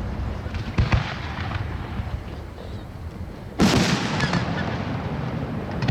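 Fireworks shells bursting: a couple of sharp bangs about a second in, then the loudest boom at about three and a half seconds, trailing off in a rumbling echo.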